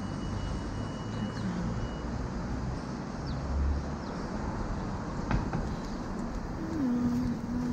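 City traffic and road noise heard from a moving bicycle: a steady rush of passing vehicles.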